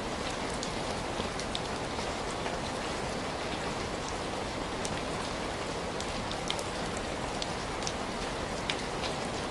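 Steady rain falling, an even hiss with scattered sharp little ticks of individual drops throughout.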